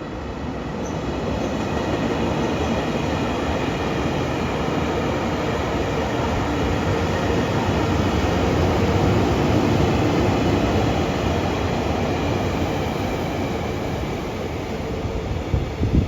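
JR Freight EH500 electric locomotive hauling a freight train past, a steady rumble of wheels on rail that builds to its loudest about halfway through and then eases off, with a few sharp knocks near the end.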